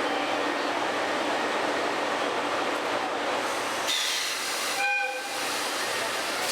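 Steady running noise of a train, a continuous rumble and hiss, with a rush of high hiss near four seconds and a brief high-pitched toot about five seconds in.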